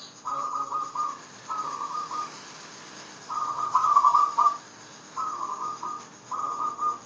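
Zebra dove (perkutut) cooing: five short phrases of rapid, trilling notes with pauses between, the loudest about halfway through.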